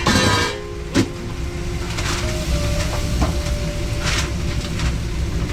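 Kitchen clatter in a food truck: a few sharp knocks and clinks of pans and utensils over a steady low rumble.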